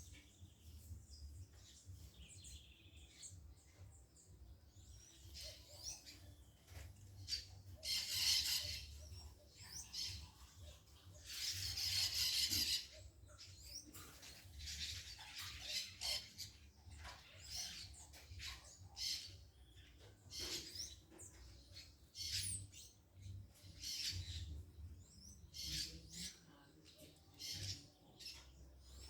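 Birds chirping with many short, scattered high calls, broken by two louder noisy bursts about eight and twelve seconds in.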